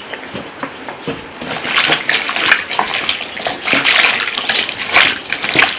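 Water splashing and sloshing as chopped soup ingredients are washed by hand in a bowl of water, with small knocks of the pieces; it gets louder and busier about a second and a half in.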